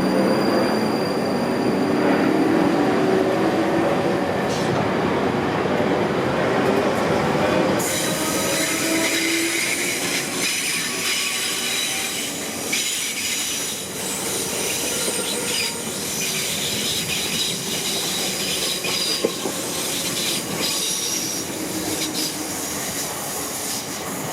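Electric train moving through the station, its motor whine rising in pitch at first. From about a third of the way in, a high-pitched wheel squeal joins it and keeps going.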